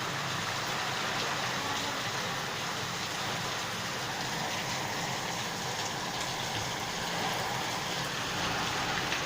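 Heavy rain pouring steadily in a downpour, an even hiss of rain on surfaces.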